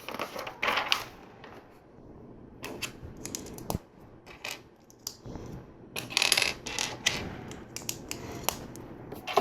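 LEGO plastic pieces being handled: irregular light clicks and taps, with a busier run of clicking about six seconds in.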